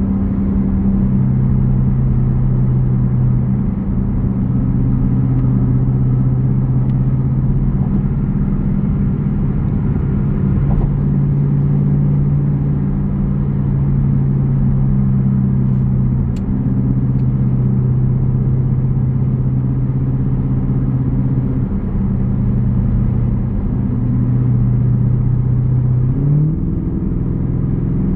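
Jeep Grand Cherokee's 5.7-litre Hemi V8 exhaust rumbling at a steady cruise, the engine note shifting a little with speed, then rising as it accelerates near the end.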